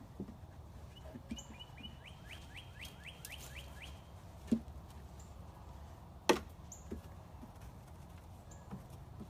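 Songbirds calling in the background: a rapid trill of about a dozen quick repeated notes between one and four seconds in, and short high chirps every second or two. Two sharp knocks stand out, about four and a half seconds in and a louder one past six seconds.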